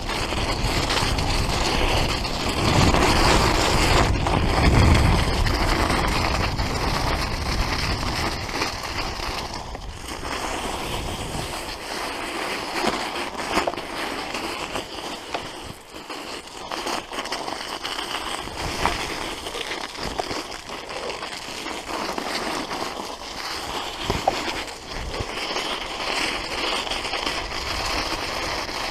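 Road bike ridden over a snowy forest track: wind buffeting the microphone and tyre rolling noise, with scattered clicks and knocks from the bike. The low wind rumble is heavy for the first ten seconds or so, then eases.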